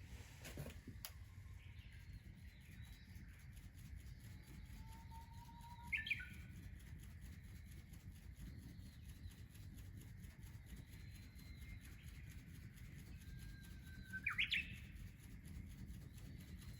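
A songbird singing twice, about six seconds in and again near the end. Each song is a short held whistle ending in a quick burst of sweeping notes. Fainter bird calls and a low steady rumble sit under it.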